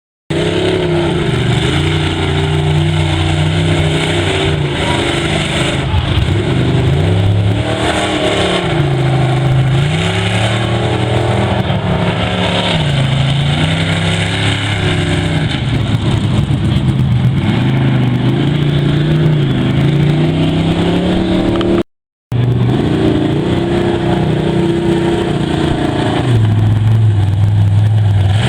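Big mega truck engine running hard, its revs rising and falling again and again as the throttle is worked. The sound cuts out for a moment about three-quarters of the way through.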